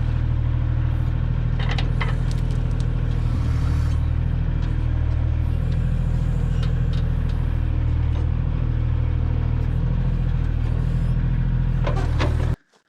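Kioti tractor's diesel engine running at a steady speed, with a few short clanks from the backhoe. The sound cuts off abruptly near the end.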